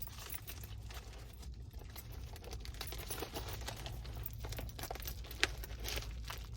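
Cardboard package being opened by hand: faint scattered crinkling, tearing and clicking of the packaging, over a low steady hum.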